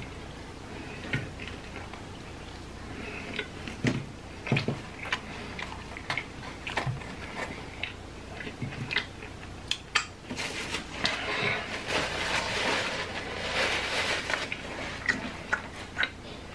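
Close-up chewing and crunching of loaded tortilla-chip nachos: wet smacking and scattered sharp crackles, with the densest crunching from about ten to fourteen seconds in.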